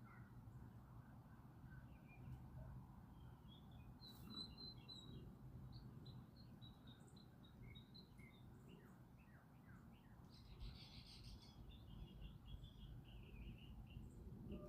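Faint small birds chirping and twittering on and off, over a steady low outdoor rumble. A brief buzzy trill comes about ten seconds in.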